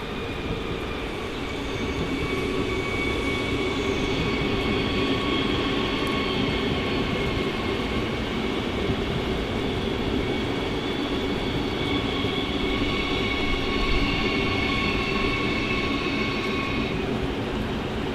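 A train moving through the station, with a low rumble under several steady high whining tones that stop near the end.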